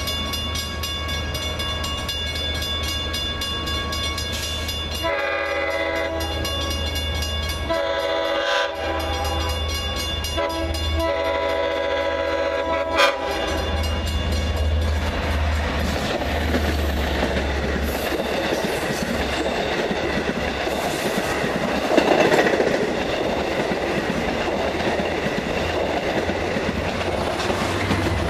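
A train's air horn sounds several long blasts as the train approaches over a steady low engine drone. The train then passes close by, its wheels rumbling and clattering over the rails, loudest a little past the middle.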